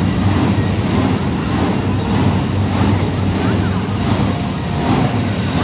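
Monster truck engine running steadily with a deep, even hum, mixed with a haze of voices.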